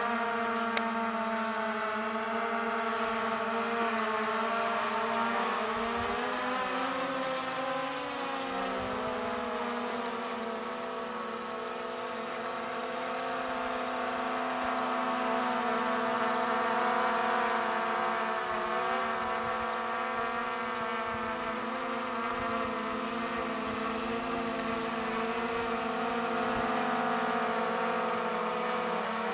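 SJRC F11 quadcopter's brushless motors and propellers whining steadily in flight. The pitch wavers and dips about six to nine seconds in, then settles again.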